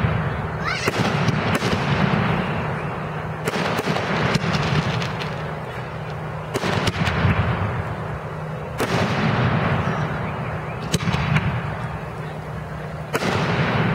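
Aerial fireworks shells bursting in quick succession, a sharp boom every second or two with a rolling rumble that fades between bursts.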